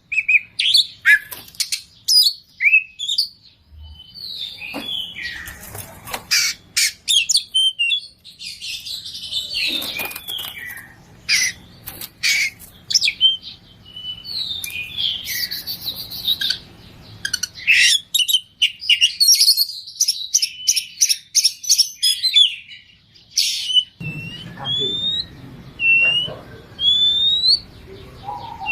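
Oriental magpie-robin (kacer) singing loudly, a fast, varied song of whistles, chirps and rapid trills packed with mimicked phrases. Near the end the song changes to a run of rising whistled notes about one a second, over a low hum.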